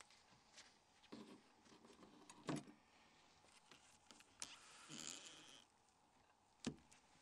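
Faint handling noises from small tools and a mobile phone's parts during disassembly: a few sharp clicks, the loudest about two and a half seconds in, and a brief scraping rustle around five seconds in.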